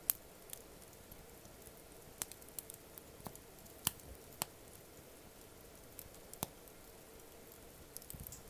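Wood campfire crackling: sparse, irregular sharp pops and snaps of burning wood over a faint hiss, the loudest pop right at the start.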